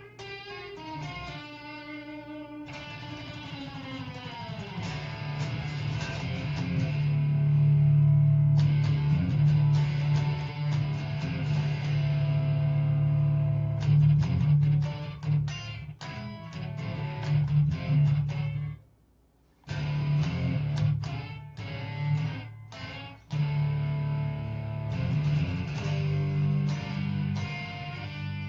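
Fender Telecaster electric guitar played with fast picking in a chugging train-rhythm blues style: a steady pulsing bass line under picked treble notes. It opens with sliding notes, and the playing breaks off for about a second about two-thirds through before picking up again.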